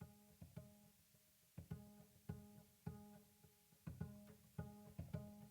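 Quiet background music of plucked strings in a loose rhythm, about two or three notes a second, with a low sustained string tone underneath.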